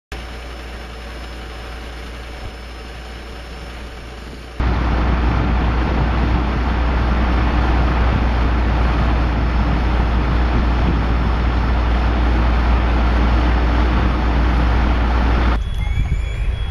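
Steady vehicle and roadway noise with a heavy low rumble. About four and a half seconds in it jumps abruptly much louder. Near the end it drops back to quieter noise with short rising chirps repeating about once a second.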